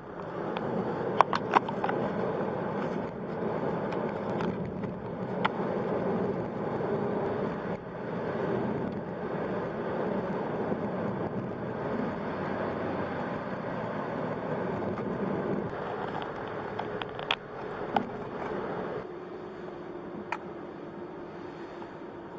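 A car driving: steady road and engine noise, with a few sharp clicks and knocks, easing off a little near the end.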